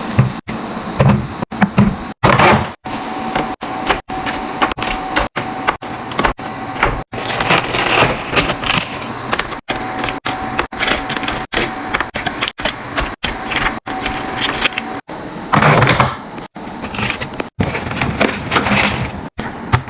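Containers, bottles and packaging clattering, tapping and rustling as they are handled and set into a fridge during restocking, broken up by frequent abrupt cuts.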